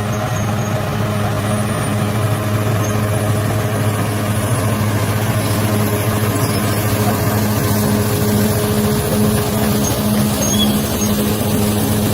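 Bulldozer's diesel engine running steadily, a constant low engine note.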